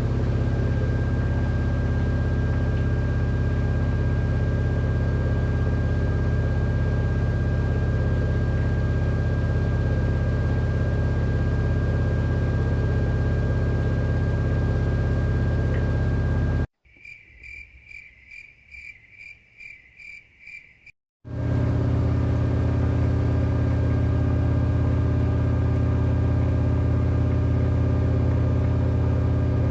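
LG inverter direct-drive washing machine running with a steady low hum, most likely its drum spinning. About halfway through, the sound cuts out abruptly for around four seconds, leaving only faint, evenly repeated high chirps at about two and a half a second; then the machine sound returns.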